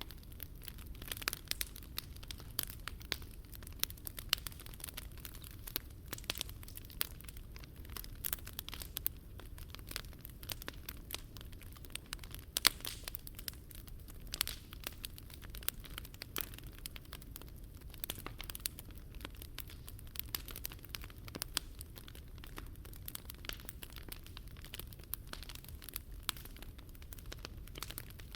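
Wood campfire burning on a Picogrill 398 fire stand, crackling continuously with many small sharp pops, over a low steady rumble. One louder snap comes about thirteen seconds in.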